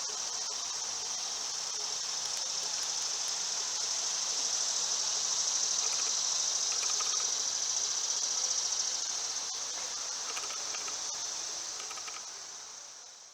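Steady high-pitched insect chorus, a continuous shrill drone that fades out near the end.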